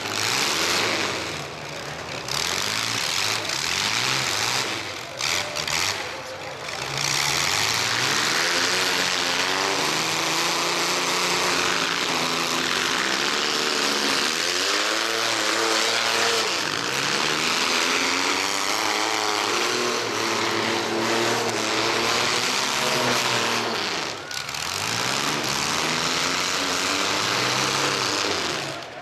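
Several mini-truck engines revving up and falling back again and again as they run in a demolition derby, over a steady wash of noise.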